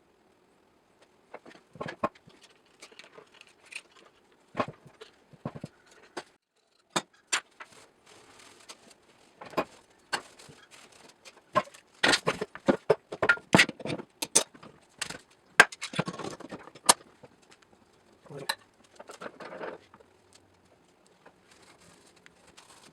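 Irregular metallic clinks, clicks and knocks, as of bar clamps and tools being handled and set on wood joints during a glue-up, busiest in the middle.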